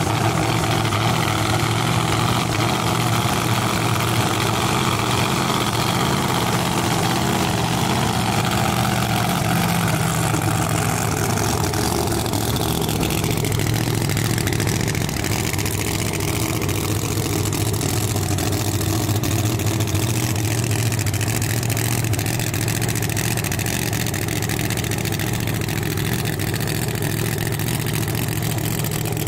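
1969 Camaro drag car's engine idling and running at low speed, steady throughout. A falling whine passes over it about halfway through.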